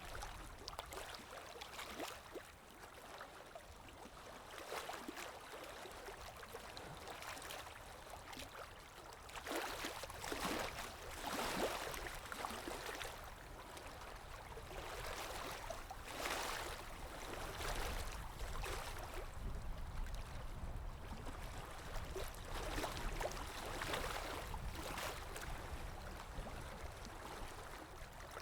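Underwater ambience: muffled moving and gurgling water over a steady low rumble, swelling and fading every few seconds.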